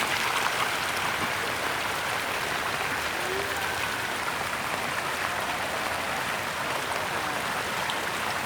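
Steady rush of fast-flowing water, like a river swollen after a typhoon.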